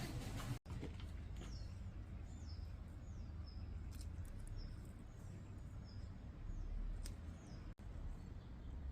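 A small bird chirping over and over, short falling chirps about twice a second, over a steady low outdoor rumble. The sound cuts out briefly twice.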